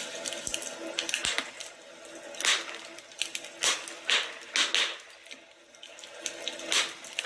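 Fireplace fire crackling, with a steady hiss and irregular sharp pops and flares.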